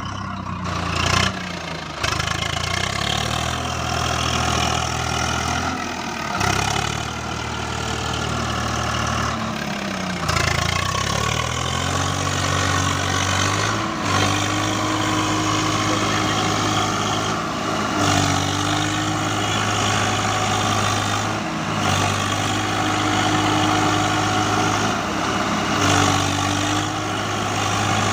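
Tractor diesel engines running hard, the engine note rising and falling every few seconds as the tractors strain to pull free of mud.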